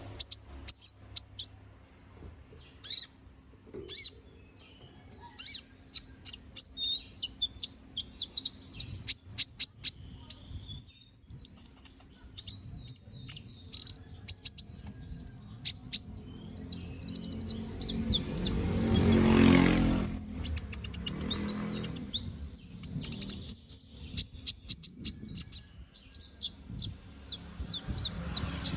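Kolibri ninja (konin) sunbird singing vigorously: rapid runs of high, thin chirps and trills in bursts with short pauses. A rushing noise swells and fades about two-thirds of the way through.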